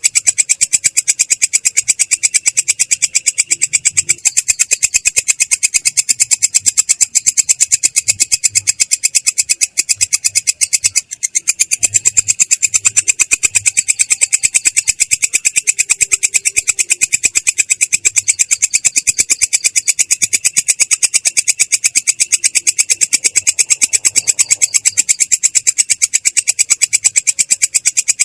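Belalang kecek katydid calling in a continuous rolling trill of rapid, evenly spaced high-pitched rasping pulses, with a momentary break about ten to eleven seconds in.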